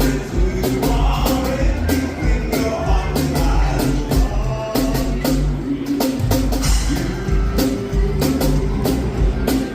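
Live band playing an upbeat song with a steady beat, heavy bass and drums, with singing over it.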